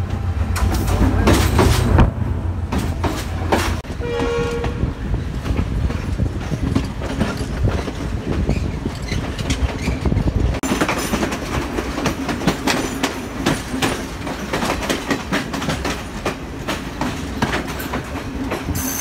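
Diesel trains: a heavy low engine hum in the first few seconds, a short horn blast about four seconds in, then steady clatter of wheels over rail joints that grows louder and busier from about halfway, as a train's coaches pass close by near the end.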